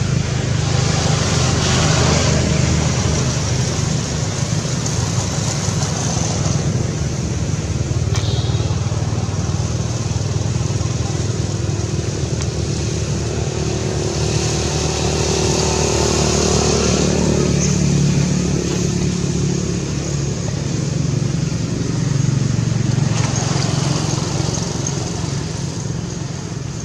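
Motor vehicle engines running steadily, with traffic noise that swells and fades a few times.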